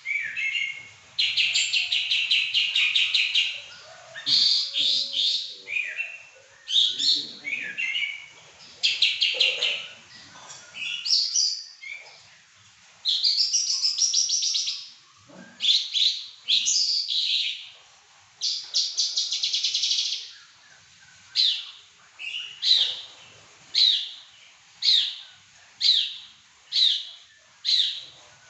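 Caged pakling (mountain tailorbird) singing loudly and continuously: fast buzzy trills and varied high phrases, then a steady run of short, sharp down-slurred notes about one a second near the end.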